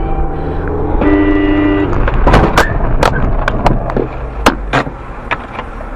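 A car horn sounds for about a second over road noise. Then comes a string of sharp bangs and cracks over about two and a half seconds, the sound of a road collision.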